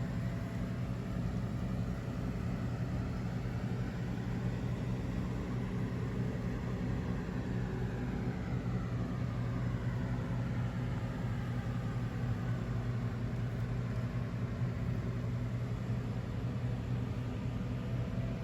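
Honda CX650 Turbo's turbocharged V-twin engine idling steadily. A faint higher whine dips and rises in pitch about halfway through.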